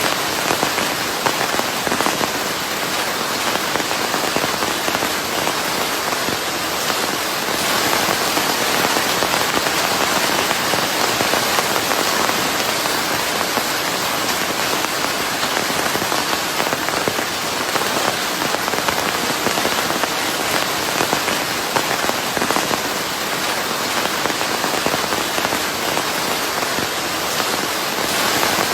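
Steady rain on a surface, a dense even hiss full of closely packed drop patter, blended with white noise.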